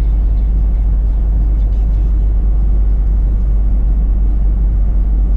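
Steady low rumble of a car driving on the road, tyre and engine drone heard from inside the cabin.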